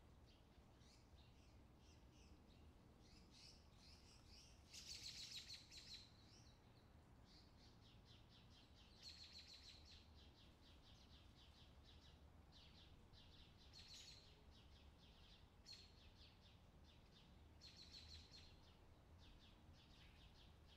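Near silence, with faint bursts of rapid, high bird chirping every few seconds, loudest about five seconds in.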